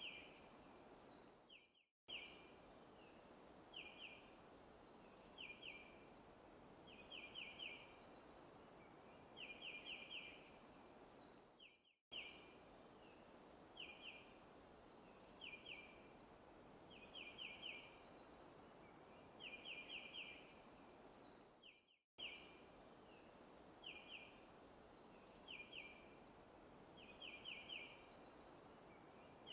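Bird chirping in short clusters of two to four quick, high notes every second or two, over a faint steady hiss. The ambience is a recording looped about every ten seconds: it briefly fades out and cuts back in at each seam.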